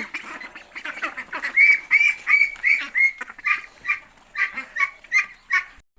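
A flock of domestic ducks quacking, many calls overlapping at first, then a run of loud, short quacks about two to three a second from a second and a half in.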